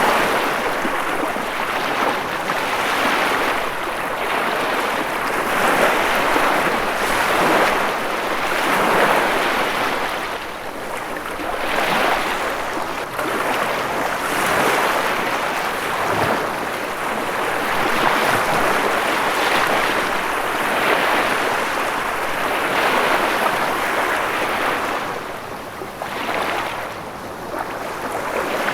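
Ocean waves washing on a shore: a continuous rushing surf that swells and eases every few seconds.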